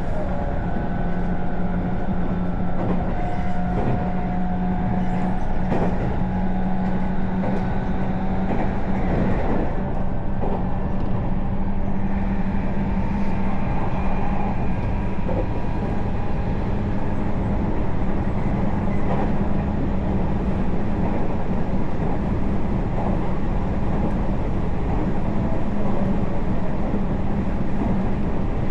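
Train running along the rails, heard from aboard: a steady low hum under rolling noise, with scattered clicks of the wheels over the track.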